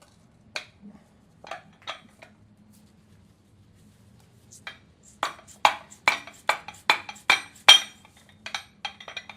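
Sharp metal-on-metal taps and clinks of a tool against a diesel engine's injection pump timing cover, which is glued down with RTV. A few scattered taps come first; about five seconds in there is a quick run of some seven harder strikes, about two and a half a second, followed by a few lighter ones.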